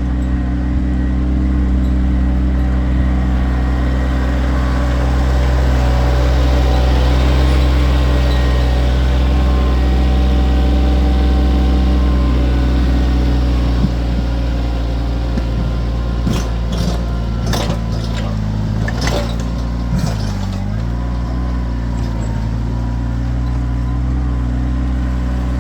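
Kioti tractor's diesel engine running steadily at working speed, with a run of sharp clanks and knocks from about sixteen to twenty seconds in. The engine's pitch dips briefly about twenty seconds in.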